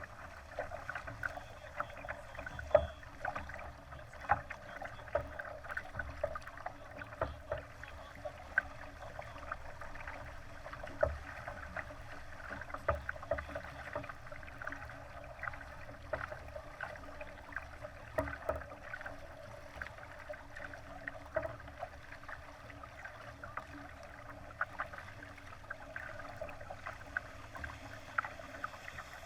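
Water slapping and splashing against the hull of a Laser sailing dinghy under way, in frequent irregular small splashes over a steady low rumble.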